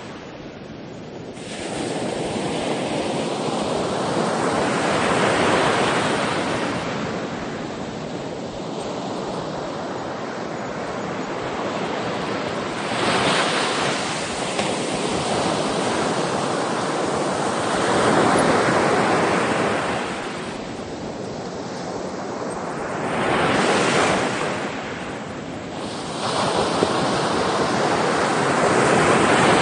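Ocean waves breaking and washing on a shore, a steady rush that swells and falls back every four to six seconds, with some wind buffeting the microphone.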